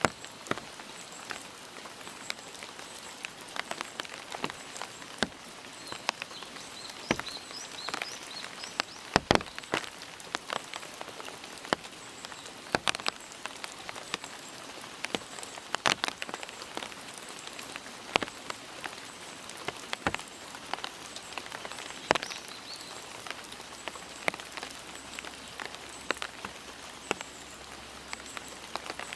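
Steady rain falling, a soft hiss with many sharp, irregular drops striking close by.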